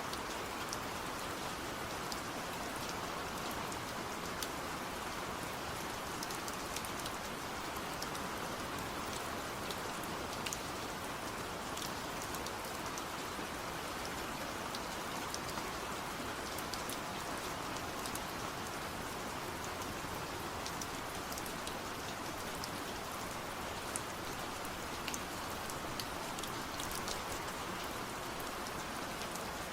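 Steady rain falling, with many individual drops ticking sharply on a surface over the continuous patter.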